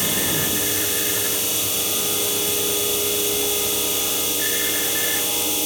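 MAKA 5-axis CNC machining centre running, a steady high-pitched machine whir with a few held tones and no breaks.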